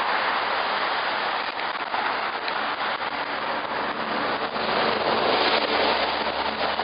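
Steady rushing noise of road traffic and wind on the microphone while cycling across a bridge. A faint engine hum comes in about halfway through.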